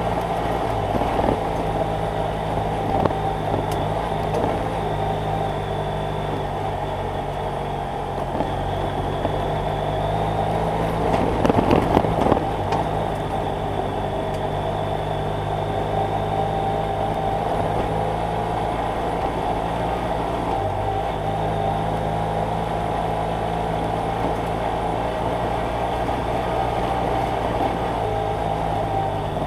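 BMW F800GS Adventure's parallel-twin engine running at a steady pitch while riding. A brief cluster of knocks comes about twelve seconds in.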